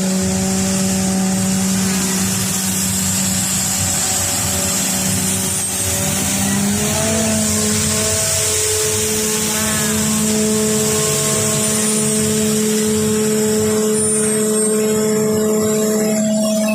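Street sweeper truck running, a steady hiss from its brushes and blower with engine noise, under background music of long held chords that change about halfway through.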